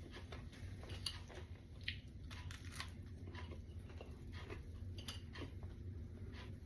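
Someone chewing crispy baked chicken wings close to the microphone: faint, irregular crunches and small crackles over a low steady hum.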